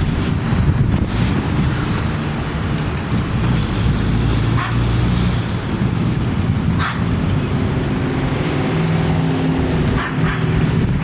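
Strong wind gusting ahead of a thunderstorm, buffeting the microphone with a loud, steady low rumble that rises and falls.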